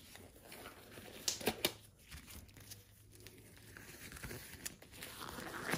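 Faint handling sounds of small parts: a few light clicks and some rustling as hands work the seals and fittings of a hydraulic valve block, over a faint steady hum.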